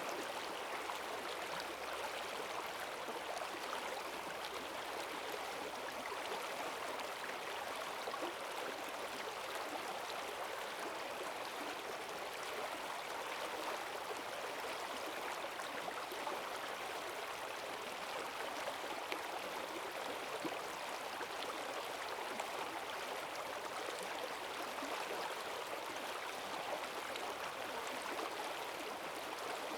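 Forest stream swollen by heavy rain, its strong current rushing and gurgling steadily over stones.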